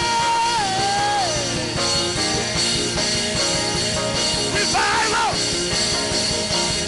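Worship band music with a steady, full sound. A voice holds a long high note that slides down and fades a little after a second in, and a short sung or shouted phrase comes about five seconds in.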